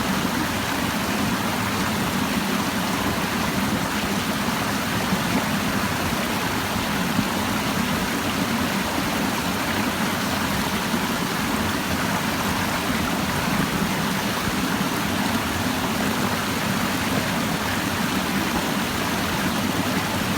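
Clear mountain stream babbling and rushing over rocks, a steady, even water sound.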